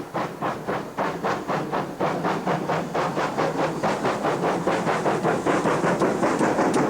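Steam locomotive working a train, its exhaust beats in a steady rhythm of about four a second, growing louder as it approaches.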